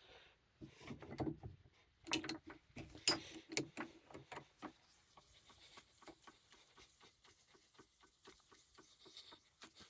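Faint handling noises at a workbench: a few sharp clicks and knocks of small parts and tools being picked up and set down in the first few seconds, then a long run of faint, quick ticks.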